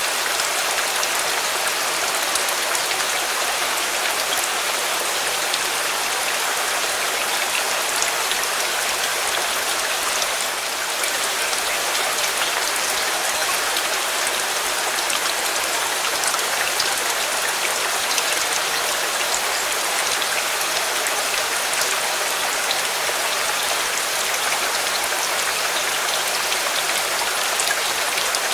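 Steady heavy rain, an even hiss with scattered faint drop ticks; the level dips slightly for a moment about ten seconds in.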